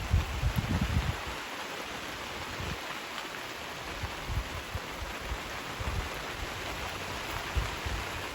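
Steady rain falling, an even hiss, with irregular low thumps underneath, the heaviest in the first second.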